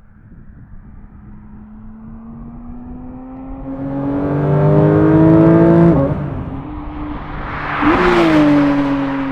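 Porsche 992 GT3 RS with a valved Grade 5 titanium F1-style exhaust doing a flyby, its naturally aspirated flat-six pulling hard. The engine note climbs steadily as the car approaches, drops sharply about six seconds in, then swells to its loudest as the car passes about eight seconds in, the pitch falling as it pulls away.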